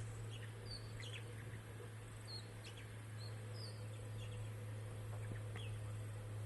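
Wild birds chirping in short, scattered calls, some brief upward and downward sweeps, over a steady low hum.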